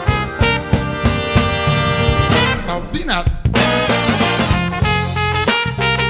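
Jazz band music with a brass horn section over drums and bass. A voice chants "peanuts" about halfway through.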